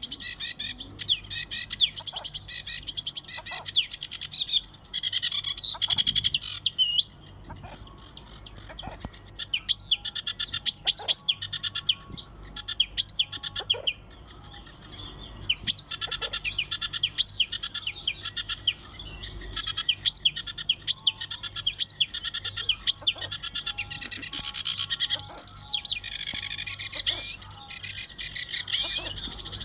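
Many small birds chirping, short high calls overlapping in a dense, rapid chatter, with brief lulls about seven and fourteen seconds in.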